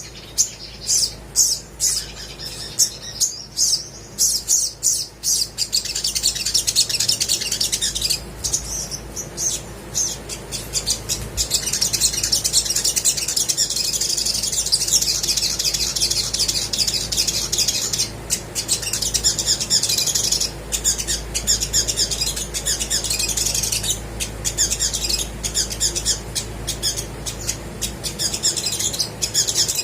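Olive-backed sunbird calling and singing in high, sharp notes. There are separate chirps for the first few seconds, then a dense, almost unbroken twittering. A faint low hum runs underneath.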